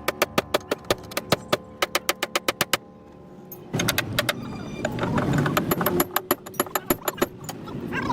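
Fast, even tapping of metal on metal, about six strikes a second, for some three seconds; then, about four seconds in, a rough scraping with scattered knocks.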